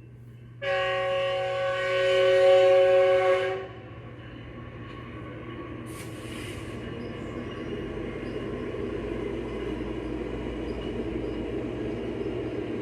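Locomotive horn sounding one long blast of about three seconds, a chord of several notes, followed by the low rumble of a passing train that slowly grows louder, with a brief hiss about six seconds in.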